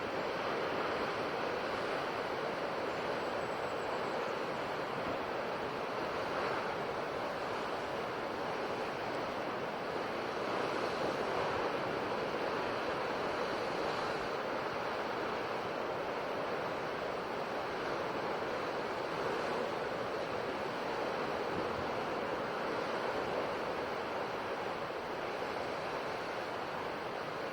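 Ocean surf washing onto a shore: a steady rush of breaking waves that swells and eases gently.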